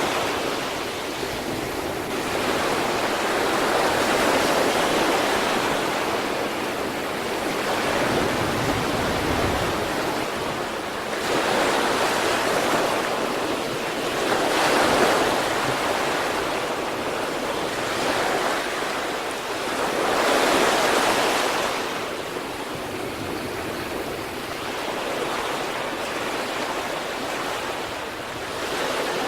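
Sea waves breaking and washing on the shore, a continuous rush of surf that swells and falls back every few seconds.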